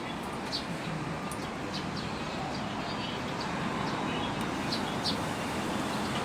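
Scattered short, high bird chirps over a steady hum of traffic.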